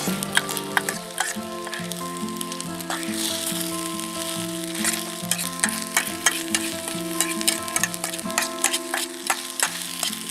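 Food frying and sizzling in a pan, with a hiss and frequent spitting crackles. Background music with sustained notes that change every half second or so plays over it.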